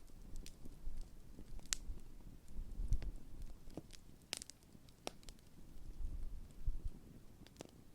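Large wood campfire burning, with scattered sharp crackles and pops over a low rumble that swells and fades.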